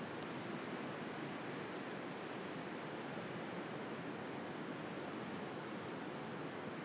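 Steady wash of sea surf, with faint, sparse crackles from a wood campfire.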